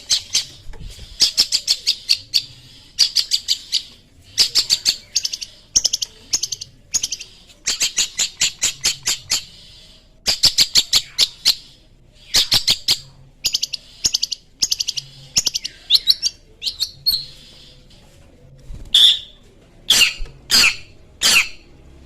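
Long-tailed shrike (cendet) singing in rapid bursts of quick chattering notes, several notes to a burst with short gaps between. Near the end it switches to single, louder downward-sweeping calls, about two a second.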